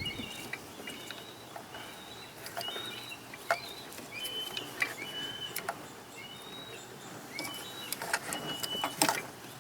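Birds chirping in short, high notes at irregular intervals, with scattered sharp clicks and handling noises in between.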